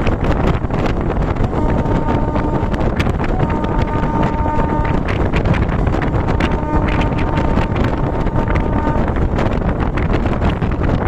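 A local passenger train running at speed, with a steady rumble and rapid clicking and rattling of wheels over the track, and wind buffeting the microphone. A train horn sounds three times: a short blast about two seconds in, a longer one around four seconds, and a long one from about six to nine seconds.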